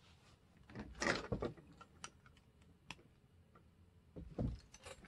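Small clicks, taps and knocks from handling and working on a part of a 1:32-scale RC model truck being taken apart. There are two busier clusters of knocks, about a second in and near the end, with scattered light ticks between them.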